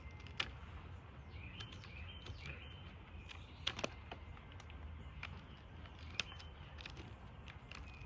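Birds chirping faintly over a low, steady outdoor rumble, with a few sharp clicks.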